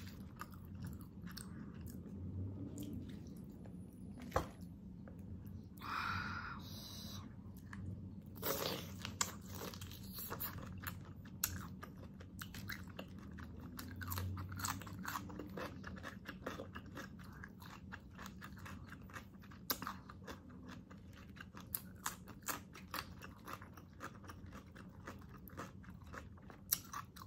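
Close-miked chewing of pork pata adobo (braised pork hock) eaten by hand, with many short clicks of eating throughout and a couple of longer bursts of mouth noise.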